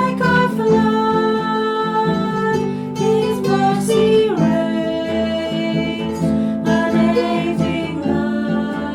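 Music led by acoustic guitar, held notes sounding continuously.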